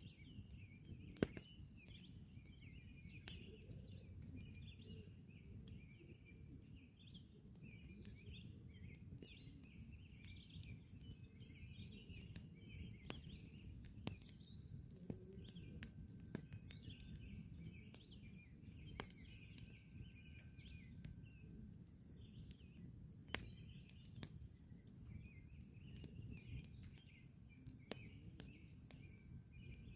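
Wood campfire crackling with scattered sharp pops, the loudest about a second in, over a low steady rumble. Birds chirp continuously in the background.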